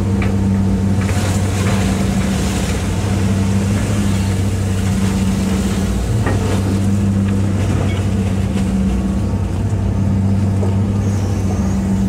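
Hitachi EX200-5 excavator's diesel engine running steadily under work, with a low, even drone.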